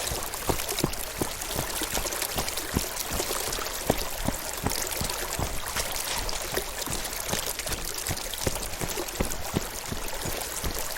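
Running water, splashing and trickling steadily, with many small splashes and drips.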